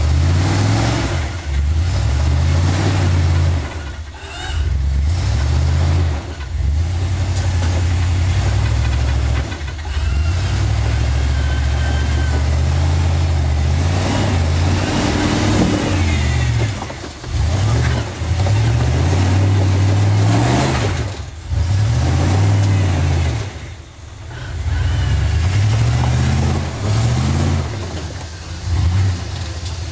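Off-road Jeep's engine revving in repeated surges under load during a climb attempt, its pitch rising and falling every few seconds with short drops in between.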